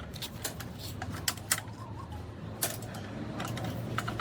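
Irregular sharp metallic clicks and clinks of hand tools working on engine parts, over a low steady hum.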